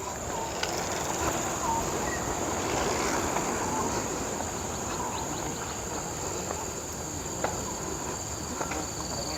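Outdoor park ambience: insects keep up a steady high-pitched drone, with a second high insect tone joining near the end, over an even background hiss with a few faint ticks.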